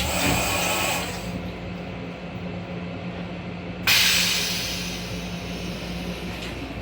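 Inside an M7 commuter railcar, a steady electrical hum runs under two sudden bursts of hissing. The first lasts about a second at the start; the second comes about four seconds in and fades over a second or two.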